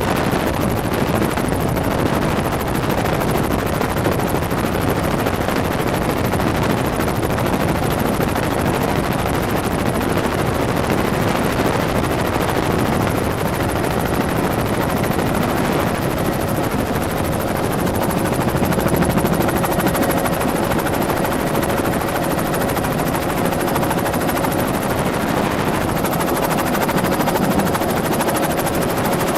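Helicopter in flight: a steady, loud drone of rotor and engine with a steady whine running through it.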